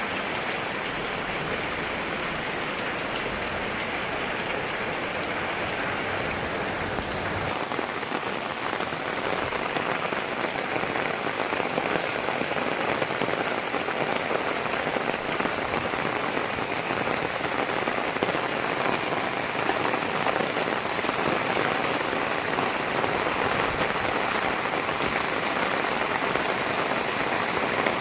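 Heavy rain falling steadily on the ground and surfaces, growing a little louder after the first several seconds. A low rumble under the rain dies away about seven seconds in.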